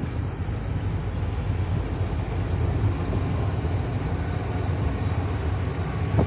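A car being driven along: steady low rumble of engine and tyre noise.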